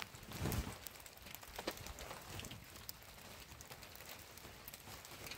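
Rain pattering on a canvas tent, with scattered drops ticking. There is a brief rustle of a heavy blanket being moved about half a second in.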